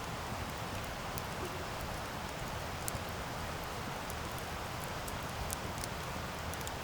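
Wood campfire burning: a steady hiss and rush of flames, with scattered sharp crackles and pops from the burning wood.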